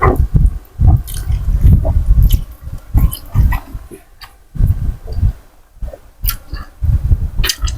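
Close-miked chewing of Thai boat noodles with pork, wet mouth sounds and small clicks coming in bursts with a few short pauses.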